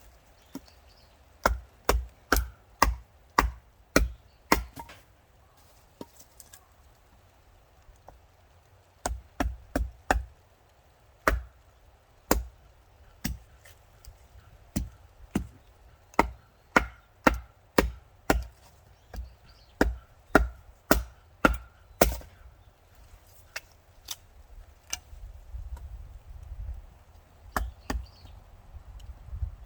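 Wood being chopped with a blade: sharp strikes in runs of about two a second, broken by pauses, with quieter handling and scuffling near the end.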